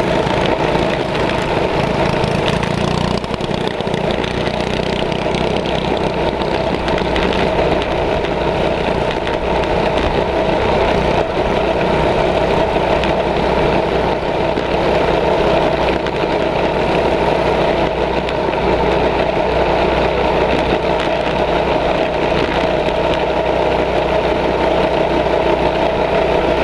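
Mini bike engine running steadily at a constant speed, its pitch and loudness holding even throughout.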